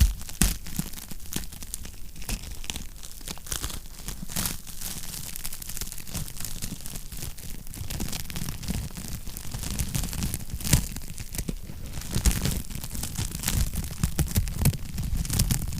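Wood fire crackling in a fireplace: irregular snaps and pops over a soft low rumble, with a sharper pop about half a second in and another about eleven seconds in.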